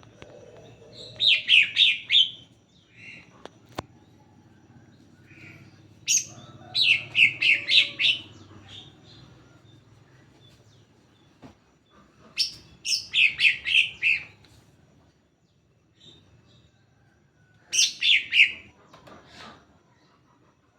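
Cucak hijau (green leafbird) singing: four short bursts of rapid, high notes, each a second or two long, a few seconds apart.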